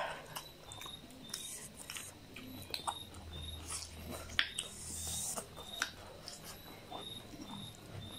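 Close-up mouth sounds of people eating by hand: chewing with sharp wet clicks and lip smacks scattered throughout, and a brief low hum from about three to five seconds in.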